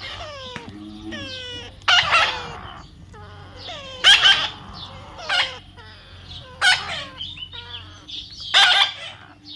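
Parrot squawking: five loud, harsh screeches about two seconds apart, with quick runs of short, falling-pitch calls in between.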